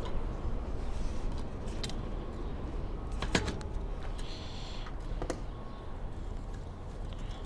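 A few sharp, separate clicks and clinks, the loudest about three seconds in, over a steady low hum.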